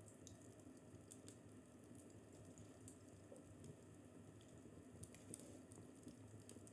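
Faint crackling fireplace: a low, steady rumble of the fire with scattered sharp snaps and pops, a few of them close together about a second in and again around five seconds in.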